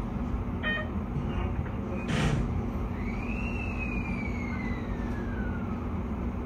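Keio 5000 series electric train standing with its equipment humming steadily. About two seconds in there is a short hiss. From about three seconds a thin whine rises briefly, then glides slowly down in pitch.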